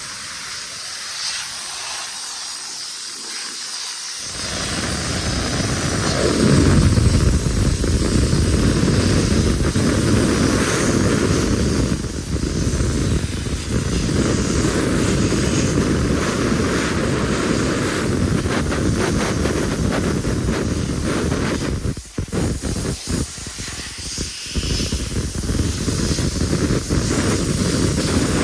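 Pressurised water spray hissing steadily during an engine bay wash. It starts as a thin, high hiss, then opens into a full, loud spray about four seconds in, with a couple of brief breaks near the end.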